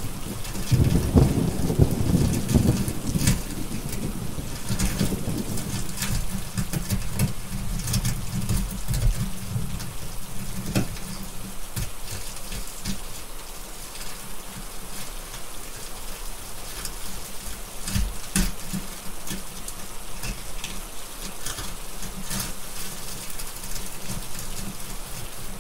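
Steady rain with a long, low thunder rumble starting about a second in and dying away over several seconds. Sharp crackles of a wood fire sound here and there throughout, and a new rumble begins at the very end.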